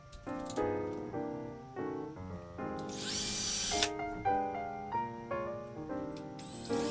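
Power drill running in one short burst of about a second, about three seconds in, and starting again at the very end, over background piano music.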